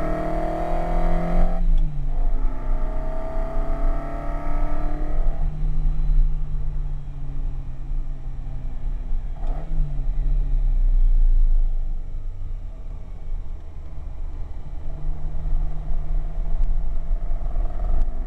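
Ferrari 308 GTB's V8 heard from inside the car on track, accelerating with rising pitch that drops suddenly about a second and a half in at a gear change, then climbs again. It then runs lighter and lower, with a short throttle blip near the middle and a pick-up again near the end, over a steady low rumble of road and wind noise.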